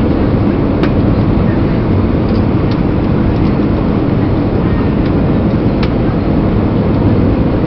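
Steady cabin rumble of an Airbus A320 on approach: engine and airflow noise heard from inside the cabin, with two faint clicks, one about a second in and one near the end.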